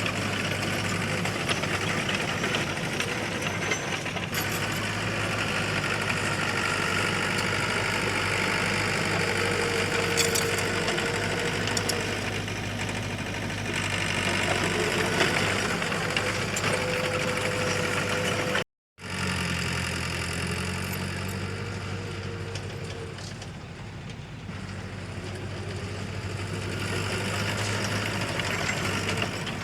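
Diesel engine of heavy earthmoving machinery running steadily under light load, with a higher whine that rises and falls over it. The sound cuts out for a moment about two-thirds of the way through, then resumes.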